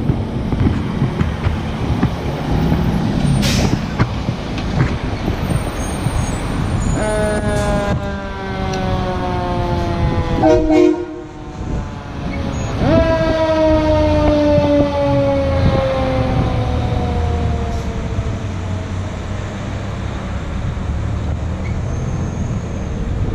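Fire truck air horn sounding two long blasts, each sliding slowly down in pitch, over a steady low vehicle rumble.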